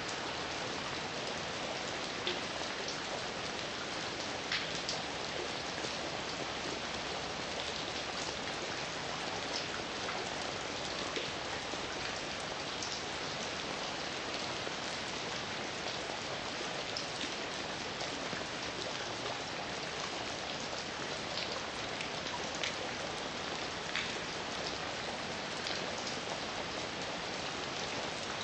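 Heavy rain falling steadily, a dense even hiss with scattered sharper drop hits on a surface.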